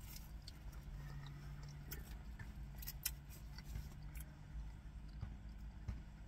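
A person chewing a mouthful of a chopped cheese sandwich, with scattered short wet clicks over a faint low hum.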